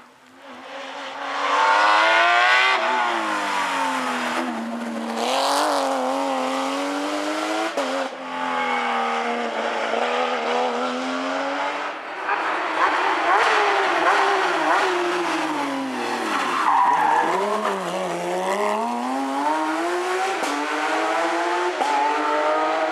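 Porsche rally car's flat-six engine revving hard, its pitch climbing and dropping again and again through gear changes and lifts. It comes in loud about a second in, and near the end of the middle section the revs fall low and climb back.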